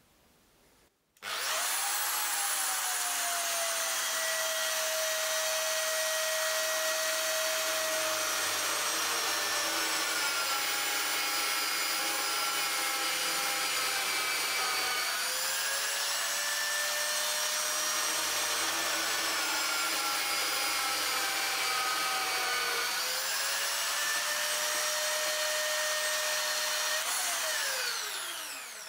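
Electric drill motor switched on, running with a steady whine whose pitch dips twice, then spinning down near the end.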